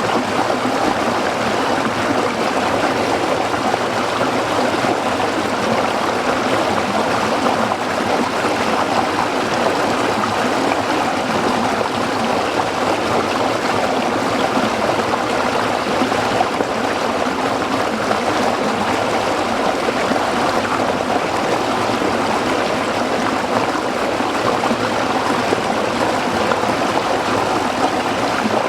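Shallow stream flowing and babbling over rocks, a steady even rush of water.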